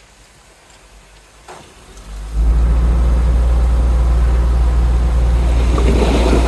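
Komatsu D31P bulldozer's diesel engine running. It is faint at first, then comes in loud and steady with a deep hum a little over two seconds in, with short knocks added near the end.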